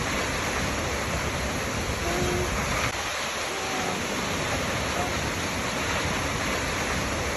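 Waterfall: a steady, even rush of falling water, with a few faint short tones here and there.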